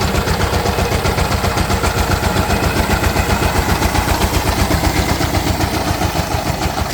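Power tiller's diesel engine running steadily after starting, with a fast, even chugging beat.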